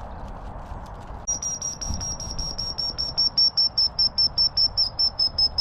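A rapid run of high, thin chirps at one pitch that sinks slightly, about four or five a second, starting about a second in and stopping near the end.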